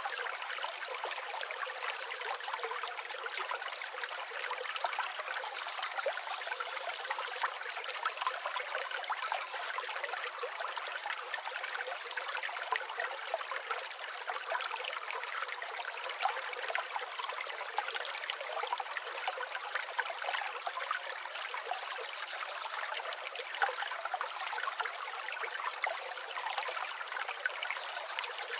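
Flowing river water trickling and babbling steadily, with no low rumble.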